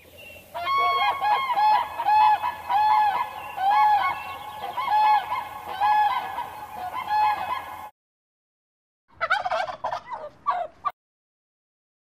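Grey crowned crane giving a run of repeated honking calls, one or two a second, for about seven seconds. After a short break, a brief burst of rapid bird calls follows about nine seconds in.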